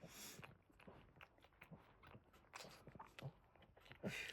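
Faint, irregular wet clicks and smacks of a Boston terrier mother licking her newborn puppies clean, a little louder near the end.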